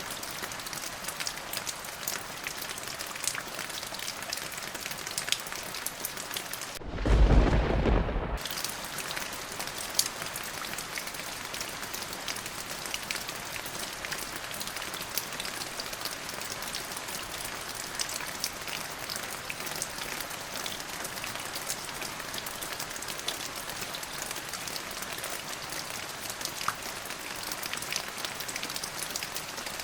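Steady rain with fine drop ticks, and about seven seconds in a single loud clap of thunder lasting about a second and a half before the rain carries on alone.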